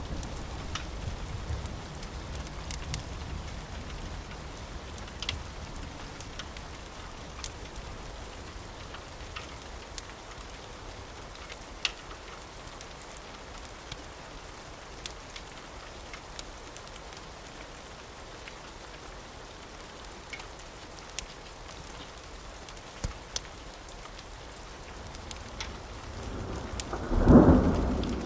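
Steady rain with occasional sharp crackles, a low rumble of thunder fading out at the start, and a loud thunderclap with rolling rumble near the end.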